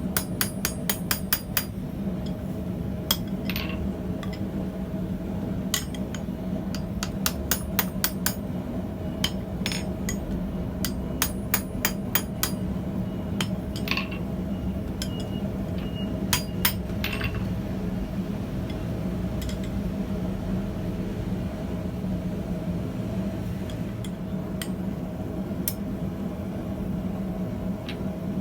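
Hammer blows on hot steel over an anvil while forging tongs, coming in quick runs of several strikes a second with pauses between, some leaving a short metallic ring; the blows thin out in the last third. A steady low hum runs underneath.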